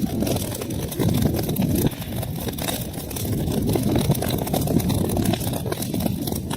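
Wood fire crackling in a fireplace: a steady low rush of burning with many small, irregular pops and snaps throughout.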